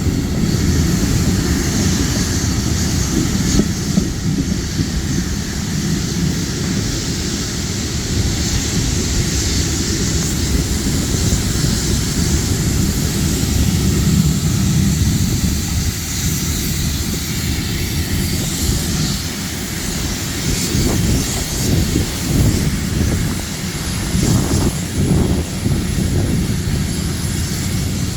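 Historic train running, a continuous low rumble with a higher hiss over it that swells and eases a little in the second half.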